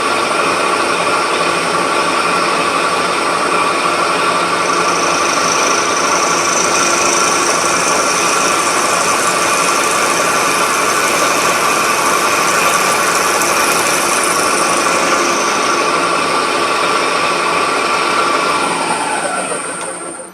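A milling machine running steadily with several held tones from its motor and drive. A higher hiss of cutting from about four seconds to about fifteen seconds. It winds down and stops near the end.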